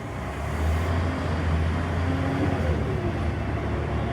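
Diesel bus engine running with a steady low drone that grows louder about half a second in.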